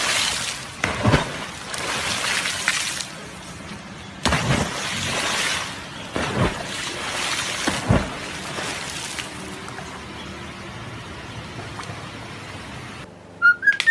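Water splashing as animals jump off a boat into a river, over a steady rush of moving water and wind. Four sharp splashes stand out, about a second, four, six and a half and eight seconds in.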